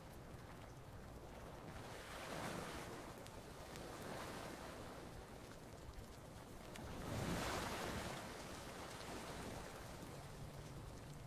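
Ocean waves washing onto a beach, swelling and receding twice, with the loudest surge about seven to eight seconds in.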